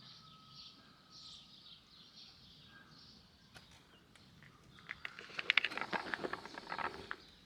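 Faint outdoor ambience with distant birds; about five seconds in, a couple of seconds of louder crackling and rustling.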